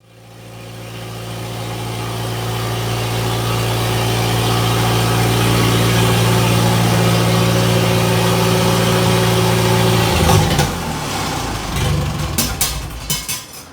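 Engine idling at a steady pitch, fading in at the start. The steady note breaks off about ten seconds in, followed by a few sharp clicks near the end.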